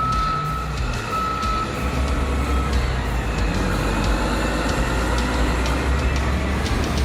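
Caterpillar 990 wheel loader's diesel engine running with a deep, steady rumble, its back-up alarm beeping about three times in the first few seconds, with scattered light clanks.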